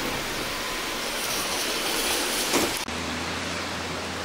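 Heavy rain pouring down, a loud steady hiss. About three seconds in the hiss softens and a steady low hum comes in under lighter rain.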